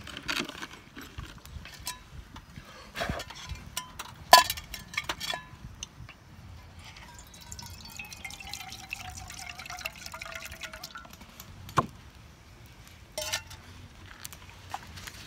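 Scattered sharp knocks and clinks, the loudest about four and a half seconds in, with a liquid pouring or dripping sound.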